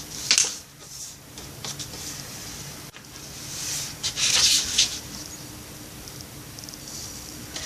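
A sheet of paper rustling and being creased as a corner is folded down, in several short swishes. The longest and loudest comes about four seconds in.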